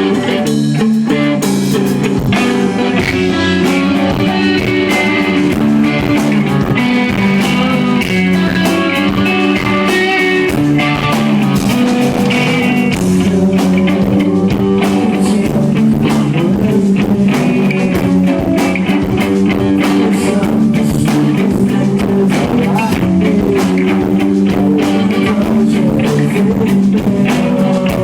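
Live rock band playing an instrumental passage: guitars over a drum kit, recorded loud from the crowd.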